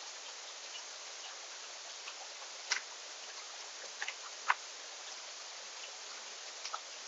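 A few short, sharp ticks at irregular intervals over a steady outdoor hiss, from animals feeding at a backyard seed feeder.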